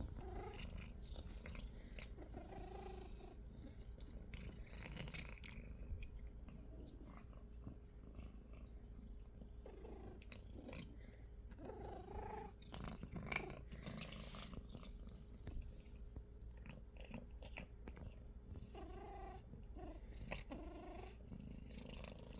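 A house cat purring while it chews treats, with faint crunching.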